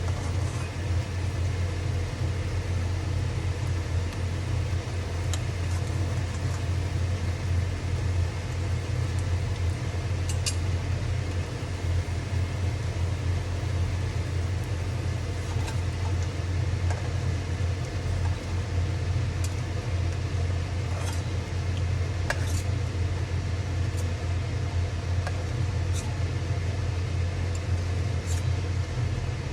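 Steady low hum at a constant level, with a few faint, sharp crackles scattered over it.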